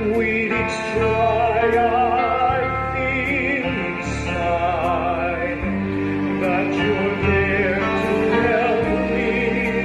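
A vocal song with vibrato, sung over instrumental accompaniment with sustained bass notes.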